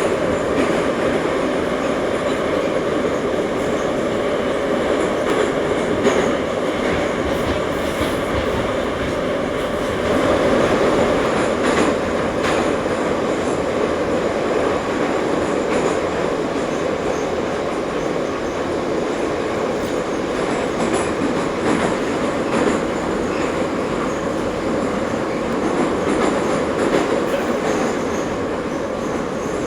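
Ezh3 metro train running at speed between stations, heard from inside the car: a steady rumble of wheels and motors, with a few sharp knocks from the rail joints.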